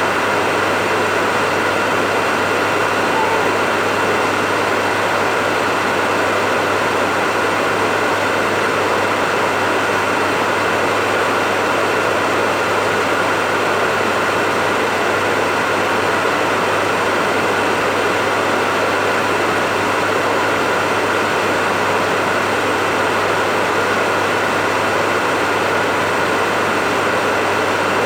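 Hair dryer running steadily: an even rush of air over a low motor hum that does not change.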